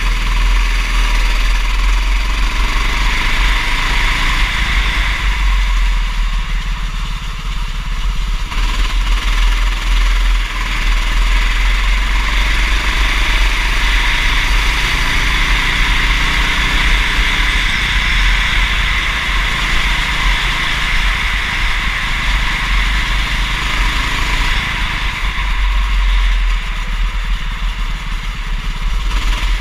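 Go-kart engine running at racing pace, its pitch rising and falling as it revs up and down, over a heavy low rumble.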